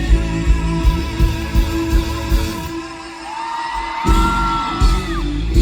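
Rock band playing live between sung lines, with drums, bass and guitar. The band thins out around the middle, a held high note enters, and the full band comes back in about four seconds in.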